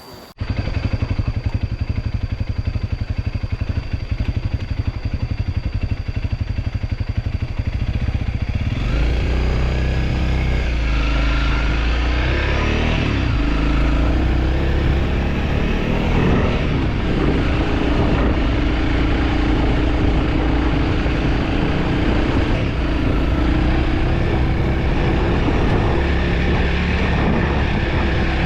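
Motorcycle engine running, starting abruptly just after the beginning with a steady low rhythm, then revving with rising and falling pitch about nine seconds in as the bike pulls away, and running steadily under way after that.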